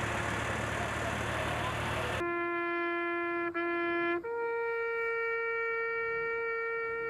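A steady hiss, then about two seconds in a held horn-like note, briefly broken once, that steps up to a higher note and holds.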